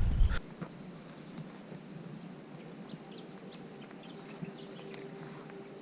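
A louder sound cuts off just after the start, leaving faint outdoor background with scattered short, high chirps of small birds.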